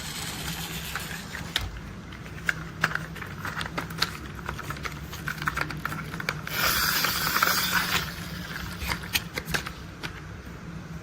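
Plastic toy construction vehicles handled and tapped: scattered sharp clicks and knocks, with a denser rattling stretch about six to eight seconds in.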